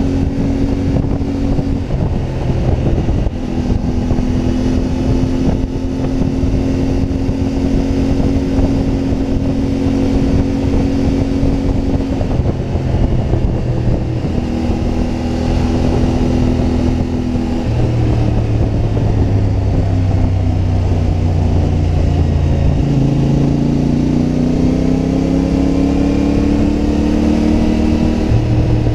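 CFMoto 450MT motorcycle's parallel-twin engine running on the move, holding steady revs with several shifts in pitch as the gears change. About three-quarters through it pulls up through the revs, then drops back with a gear change near the end.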